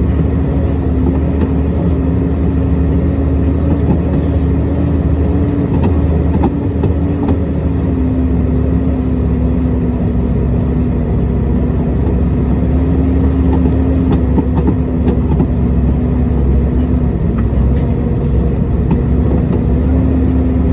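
A motor vehicle's engine running steadily with a constant low hum, with scattered light knocks and rattles.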